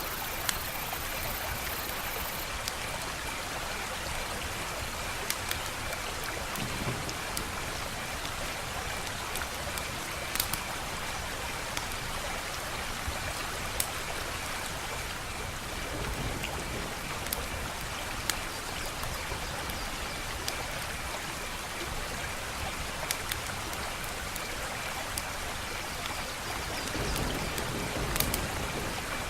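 Wood fire crackling: a steady hiss with sharp pops every few seconds.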